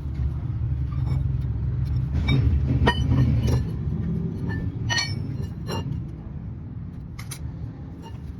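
A workshop machine running with a steady low hum, with scattered light metallic clinks and taps over it.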